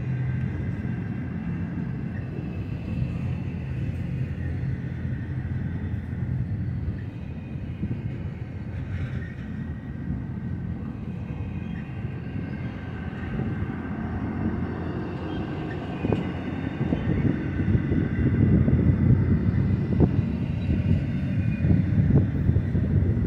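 Double-stack intermodal well cars rolling slowly past on the rails: a steady low rumble of wheels on track with faint high thin tones above it. The rumble grows louder and rougher in the last third.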